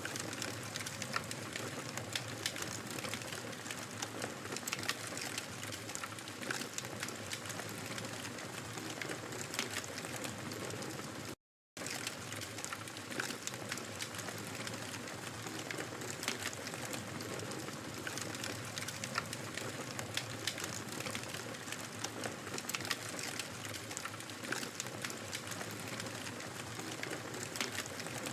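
Wood fire crackling, with frequent small pops and snaps over a steady hiss. The sound cuts out completely for a split second about eleven seconds in.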